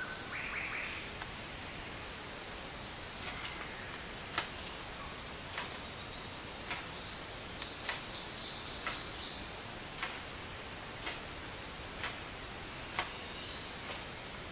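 Tropical forest ambience: insects buzzing in on-and-off high-pitched bursts. From about four seconds in, a sharp click comes roughly once a second.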